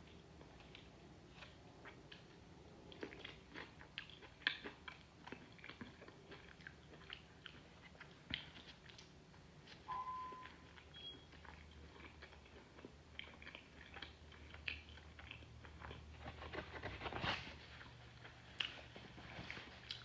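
Close-up chewing and biting of mango habanero-sauced chicken, with wet smacks and crunchy bites coming as irregular clicks, thickest near the end.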